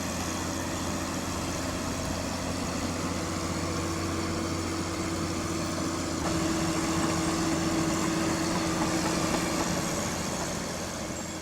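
Bulldozer's heavy diesel engine running steadily, with a steady hum that grows a little stronger partway through, then fades out near the end.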